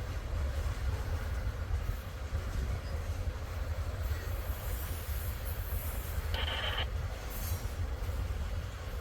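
Freight train cars rolling past with a steady low rumble. A brief high screech, likely from the wheels, comes about six seconds in.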